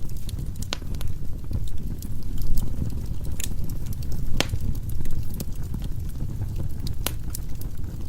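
Firewood burning in a fireplace: a steady low rumble of flame with scattered sharp crackles and pops, the biggest about four and a half and seven seconds in.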